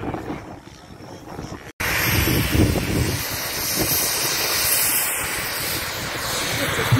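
A model airplane flying, its engine a steady drone, mixed with wind buffeting the microphone. The sound cuts off abruptly a little under two seconds in and picks up again louder and steady.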